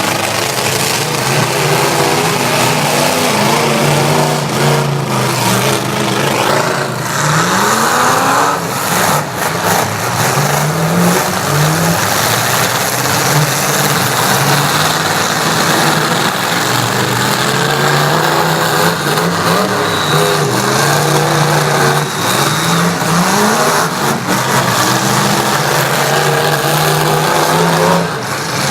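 Demolition-derby truck engines revving hard, rising in pitch again and again and falling back. A few sharp bangs break in along the way.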